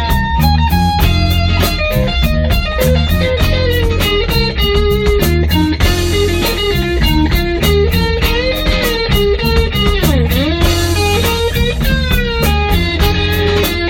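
Blues band playing an instrumental passage: a lead line with bent notes over a bass line and a steady drum beat.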